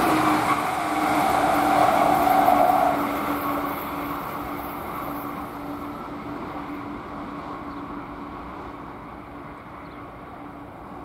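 Passenger train on the Northeast Corridor passing at speed and then receding. A tone drops slightly in pitch as it goes by and then holds steady while the rumble fades away from about three seconds in.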